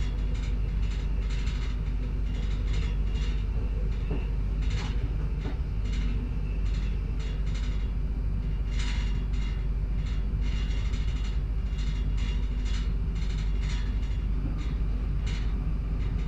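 Z 20500 double-deck electric multiple unit heard from inside the carriage while running: a steady low rumble with a hum, and irregular short clicks from the wheels and car body.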